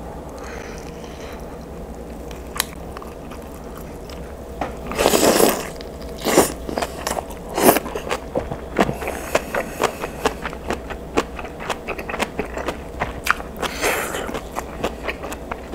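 Close-miked eating sounds of a person chewing braised kimchi and mackerel with rice. It is fairly quiet at first, with a short louder burst about five seconds in, then wet mouth clicks and smacks coming thick and fast from about nine seconds in.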